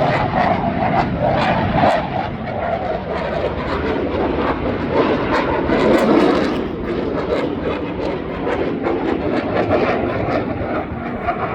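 Airplane flying by at an airshow, a steady engine roar that swells to its loudest about six seconds in and then eases off.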